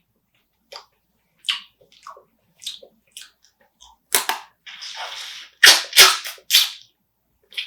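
Spicy marinated raw crab being eaten close to the microphone: small clicks, then a cluster of loud, sharp cracks of crab shell being bitten about four to six and a half seconds in, with a short noisy stretch between the cracks.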